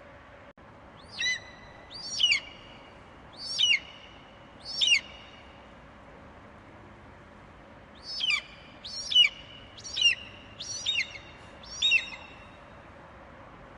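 Eagle calling: a series of short, high screeches, each falling sharply in pitch, four in a row and then five more after a pause of about three seconds.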